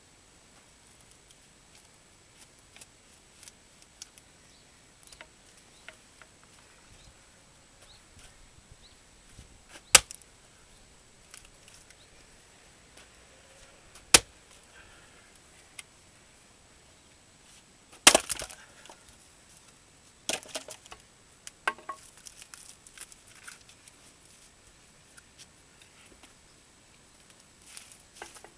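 Axe blows on a dry larch firewood round: four sharp cracking strikes a few seconds apart, the first about ten seconds in. The last two are followed by a scatter of smaller knocks and crackles as the wood splits and pieces fall.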